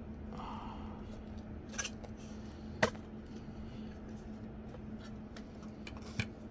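Three sharp clicks or taps of small hard objects being handled, the loudest about three seconds in, over a steady low hum.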